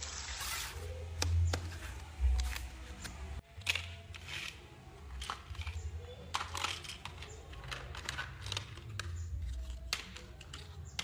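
Irregular light clicks and knocks of wood pieces and hand tools being handled during woodworking, over a low rumble, with a sudden break about three and a half seconds in.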